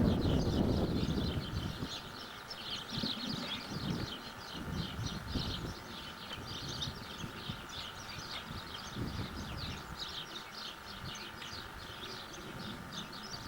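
Many small birds chirping busily and rapidly. A low rumble fades away in the first second or two, and a faint steady hum runs underneath.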